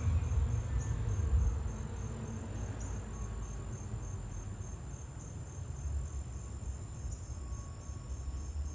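Crickets chirping in an even, high-pitched pulse over a steady high drone, with a low rumble underneath that is strongest in the first second or two.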